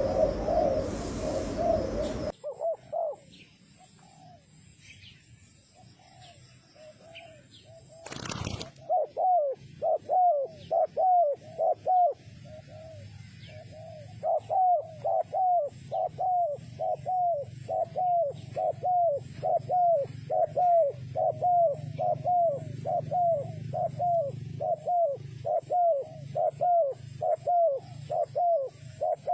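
Spotted dove cooing. After a louder opening that cuts off suddenly about two seconds in and a quieter stretch, the dove settles into a long run of short coos repeated evenly, about one to two a second.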